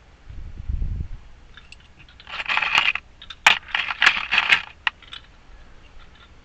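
Metal keys jingling and clinking as a locksmith sorts through pre-cut keys, in two jangling bursts with sharp clicks from about two seconds in, after a low thump near the start.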